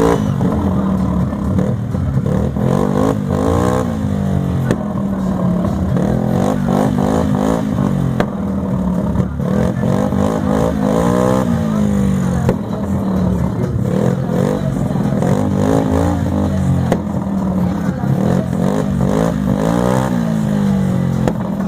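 Music blasting through a car audio sound system, with a heavy bass line stepping between notes, sweeping glides and a voice in the mix, played loud and somewhat distorted.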